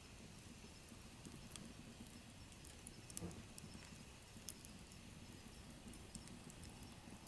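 Wood fire burning in a wood stove, faint: scattered small crackles and pops over a low steady rustle of the flames, a few sharper pops around the middle.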